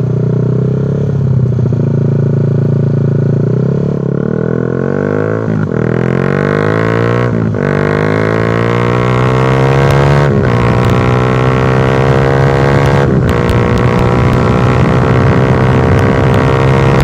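Honda Sonic 150R's single-cylinder engine through an SC Project Purbalingga aftermarket exhaust with no dB killer, accelerating hard at high revs. The pitch climbs and drops back at each of four upshifts.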